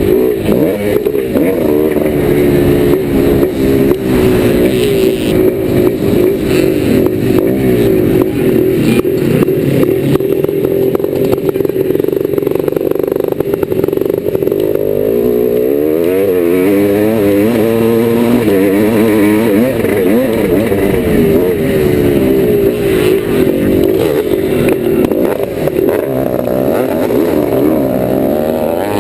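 Yamaha YZ490's two-stroke single-cylinder engine being ridden hard round a motocross track, its pitch rising and falling over and over as the throttle opens and closes, with knocks and clatter from the bike over the bumps.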